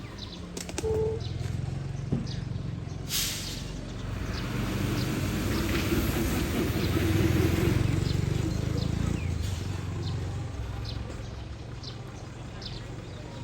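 Heavy truck's diesel engine running, its rumble building to its loudest in the middle and then easing off, with a short hiss about three seconds in.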